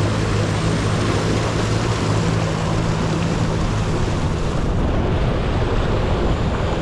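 Steady rush of flowing river water, with a low steady hum under it for the first four seconds or so.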